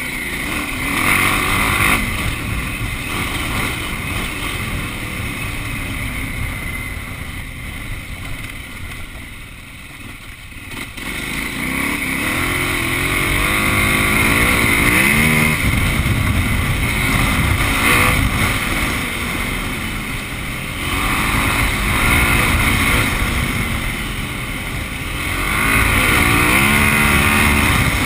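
KTM 950's V-twin engine under way, its pitch rising and falling as the throttle is opened and closed; it eases off around ten seconds in, then pulls harder again.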